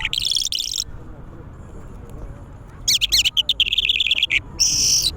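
A songbird singing in three short bursts of quick, warbling, high notes: one at the start, a longer run about three seconds in, and a brief burst near the end.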